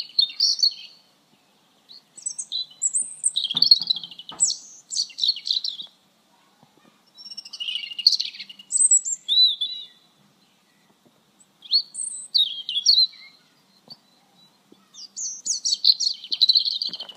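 A songbird singing: about five phrases of quick high chirps and trills, each lasting one to a few seconds, with short silent pauses between.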